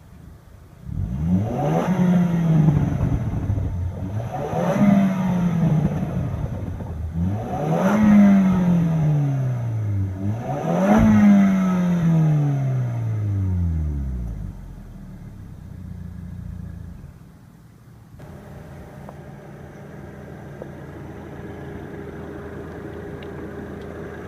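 Range Rover Evoque's 2-liter turbocharged four-cylinder engine revved four times while stationary. Each rev rises and falls back, the last two longer and slower to drop. It then settles to a steady idle.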